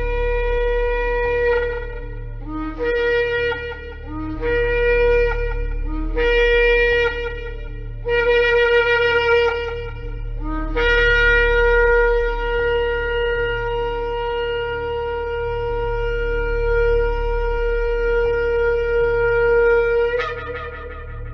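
Shofar (ram's-horn) blasts: a held note, then four short blasts that each start on a lower note and slide up, then one long held blast of about nine seconds that jumps up in pitch at its end. A steady low hum runs beneath.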